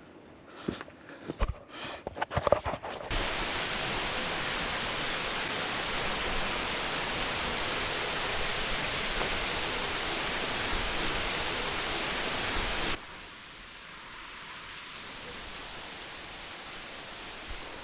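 A few knocks and scuffs, then a sudden switch to the steady, even rush of a waterfall. About ten seconds later the rush drops abruptly to a quieter level, as if a different spot, and it cuts off at the end.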